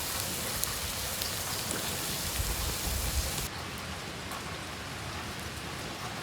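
Steady rain falling, with scattered drops ticking. About halfway through it changes abruptly to a duller, softer rain with less hiss.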